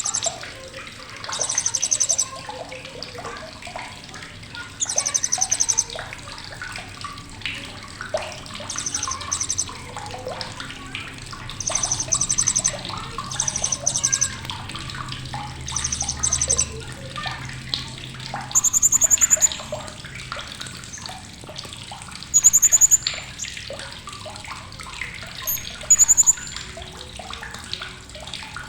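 Blue-crowned hanging parrot (srindit) giving sharp, very high, rapid chattering bursts, each about a second long and repeated every couple of seconds, over softer continuous chirping and a faint watery hiss.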